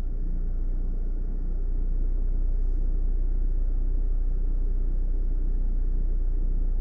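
Off-road vehicle running with a steady low rumble, its engine and drivetrain heard as it moves off or waits on a rough track.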